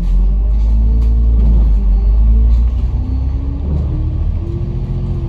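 Bus engine and drivetrain pulling hard as the bus accelerates, a heavy low rumble with a whine that climbs in steps.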